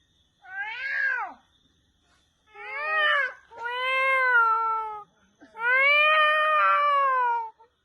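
A person imitating a cat, giving four meows that rise and then fall in pitch; the last two are long and drawn out.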